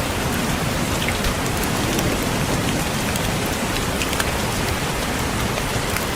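Steady rain falling, with scattered raindrops tapping on a window glass over an even hiss.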